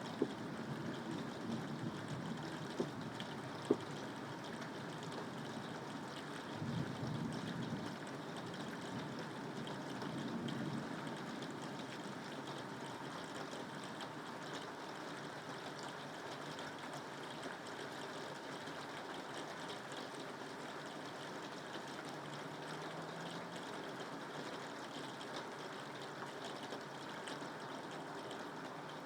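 Steady rain falling, an even hiss of water, with a few low rumbles during the first ten seconds or so and two sharp ticks around three to four seconds in.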